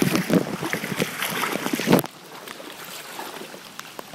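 Floodwater sloshing and splashing in quick, irregular strokes for about two seconds. It then drops suddenly to a quieter, steady wash of water.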